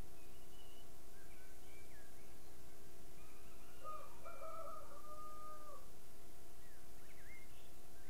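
Birds calling: scattered faint short chirps, and one louder drawn-out call lasting about two seconds in the middle, over a steady faint hum.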